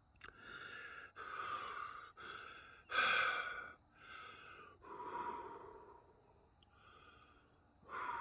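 A man breathing heavily close to the microphone: a run of audible breaths in and out, each about a second long, the loudest about three seconds in.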